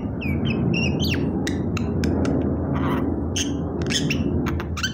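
A pet myna making a quick run of sharp clicks and short chirps, with a rising chirp about a second in, over a steady low rumble.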